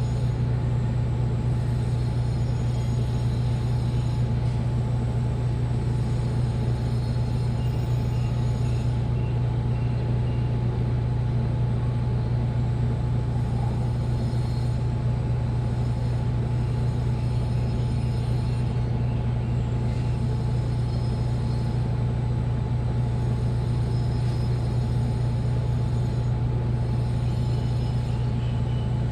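Washing machine running with a steady, even low hum and no breaks or knocks.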